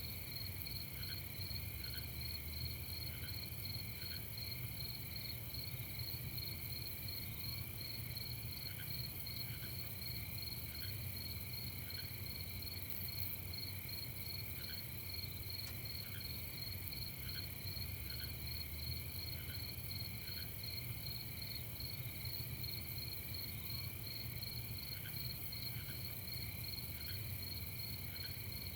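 Crickets chirping in a steady, rapidly pulsing night chorus, with short paired chirps from another insect recurring every few seconds, over a high hiss and a low steady rumble.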